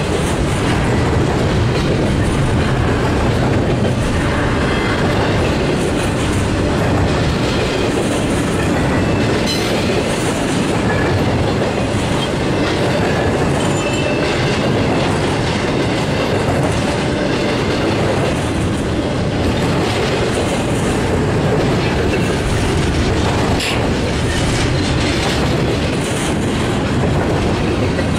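Double-stack intermodal well cars of a Norfolk Southern freight train rolling past: a steady rumble of steel wheels on rail, with clacking over the rail joints and faint wheel squeal now and then.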